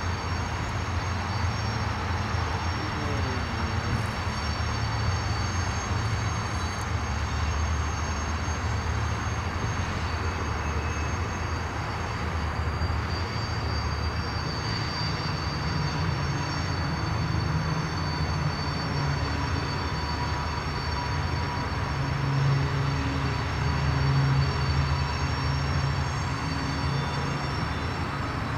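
Freight train cars rolling past: a steady low rumble under a broad wash of noise.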